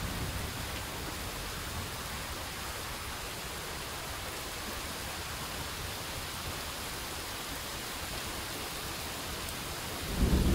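Heavy rain falling steadily on a flooded street and yard, a dense even hiss. Near the end a much louder low rumble comes in.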